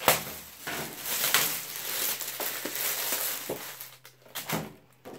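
Packaging, papers and plastic bags rustling and crinkling as they are handled and sorted, easing off after about four seconds into a few light clicks.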